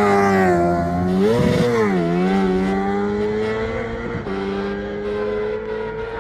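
Racing motorcycle engine at high revs passing close and pulling away. About a second and a half in the note swoops up and back down, then it climbs steadily through the gear as it slowly fades.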